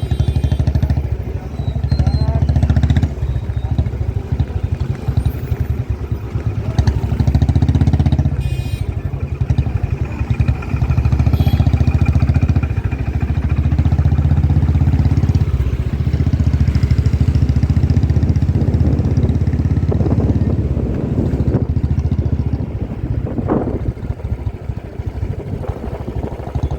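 Motorcycle being ridden along a road: steady engine and road noise, with the loudness rising and falling as it goes.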